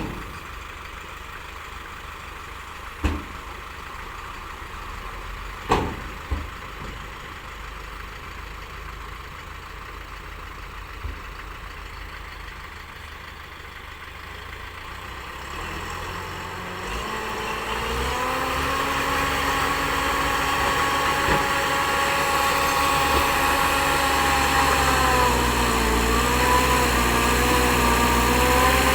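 Bulldozer's diesel engine idling low, with a few sharp knocks early on, then rising in speed about halfway through and running loudly and steadily, its pitch sagging briefly near the end.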